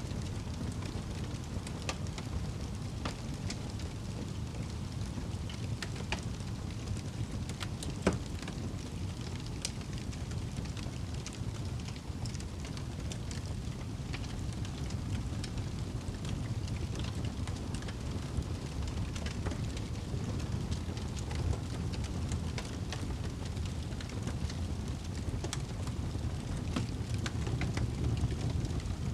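Wood fire crackling in a fireplace: a steady low rumble of burning with scattered small pops and snaps, one louder pop about eight seconds in.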